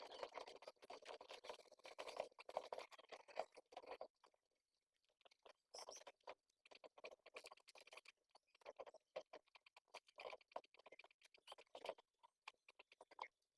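Faint, rapid, irregular clicking and rustling of pigeons at the nest, with a quiet gap of about a second and a half about four seconds in.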